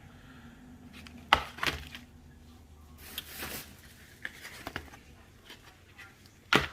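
Packs of fireworks being handled: a few sharp knocks and taps, a brief rustle of packaging about three seconds in, and a loud knock near the end.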